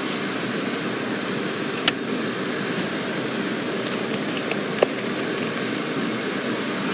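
Steady road and engine noise inside a moving car, with two sharp clicks about two and five seconds in.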